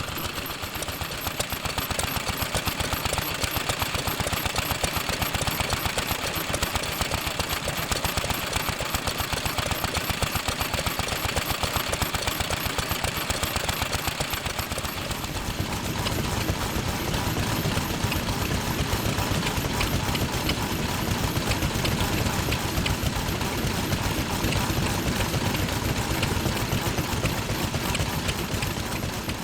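Old Japanese stationary farm engines (hatsudōki) running, a steady fast chatter of exhaust beats; about halfway through a deeper engine rumble joins in.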